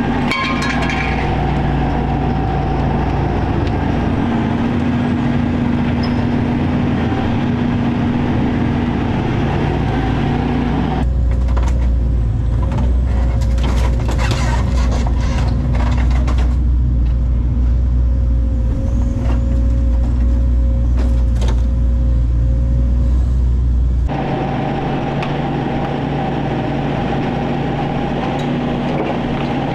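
Heavy diesel excavator engine running steadily. About a third of the way in the sound switches abruptly to a deeper, louder rumble with scattered knocks and cracks, and switches back near the end.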